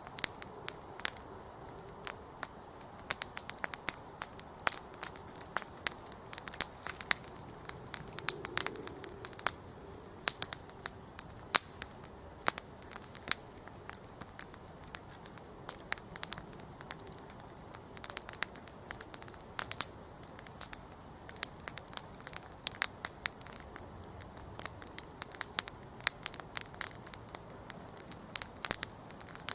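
Wood campfire crackling: a steady soft hiss of burning, broken by many irregular sharp snaps and pops from the burning wood.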